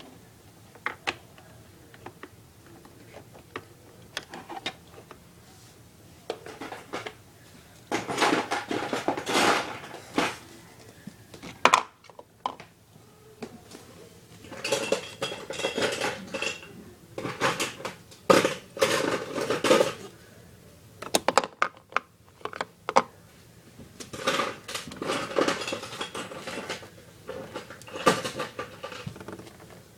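Small hard plastic toy pieces and accessories clinking and clattering as they are handled and set out. Scattered clicks come first, then several longer bursts of rattling clatter.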